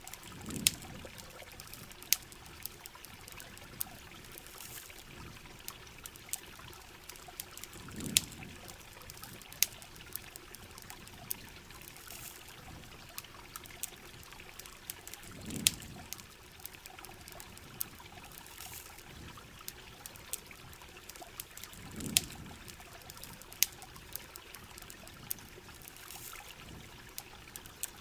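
Steady heavy rain with a campfire crackling: many sharp pops scattered through the rain. A low swell rises and fades about every seven seconds.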